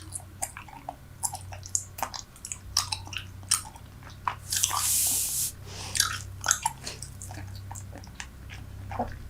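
Close-miked chewing of Super Bubble bubble gum: wet smacks and clicks of the gum several times a second, with one louder breathy rush of air lasting about a second midway.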